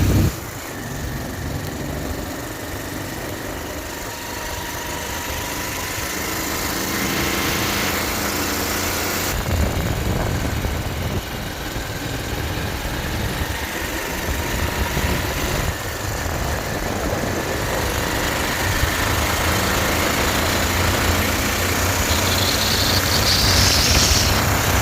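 Motorcycle running while ridden, its engine mixed with a rough wind rumble on the microphone. Near the end a high hissing tone rises.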